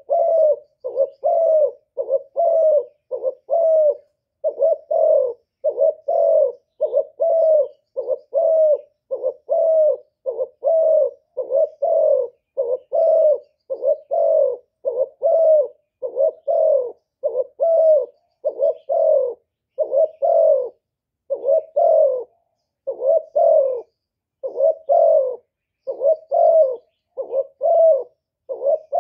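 Spotted dove cooing in a long, even run of short, low coos, a little more than one a second. This is the calling of a decoy dove, used to draw wild doves.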